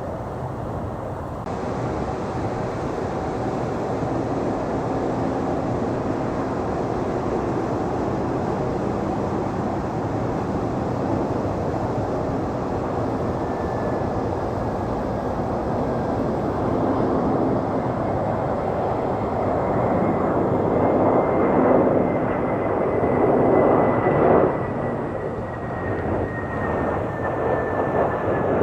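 Jet airliner engines heard at an airport as the plane moves past: a steady jet rush with a thin whine that slowly falls in pitch, growing louder through the middle and loudest a little past the twenty-second mark.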